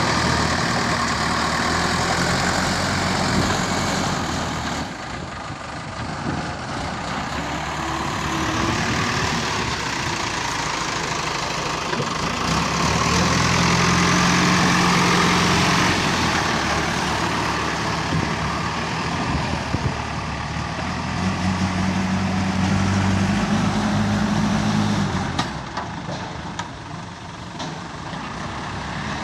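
Diesel engine of a JCB digger running steadily while working. It revs up twice, for a few seconds each time: once around the middle and once near the end.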